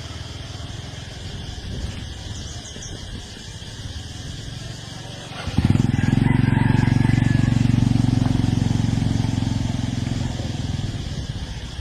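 A small engine runs in the background, then comes in much louder and close about five and a half seconds in. It runs steadily and eases off slightly near the end.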